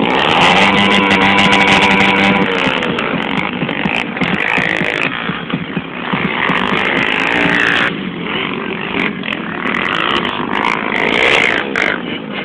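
Motocross bike engine revving: it climbs quickly to a high, steady pitch held for about two seconds, then eases off and keeps rising and falling.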